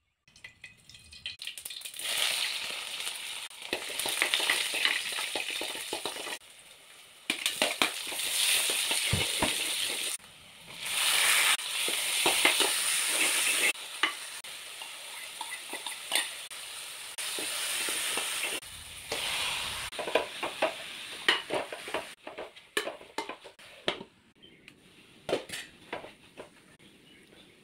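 Tomatoes and garlic frying in oil in an aluminium pressure cooker, a steady sizzle with a spatula stirring and scraping, clicking sharply against the metal. The sizzle cuts off and restarts several times. In the last few seconds it is quieter, mostly scattered scrapes and clicks as dill leaves are stirred.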